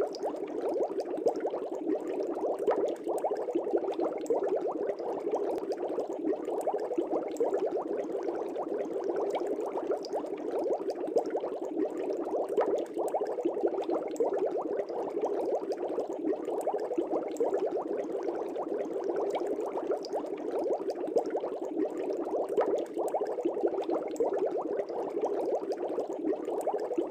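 Aquarium air bubbles rising and breaking at the water surface in a fish tank: a steady, dense bubbling with many small pops throughout.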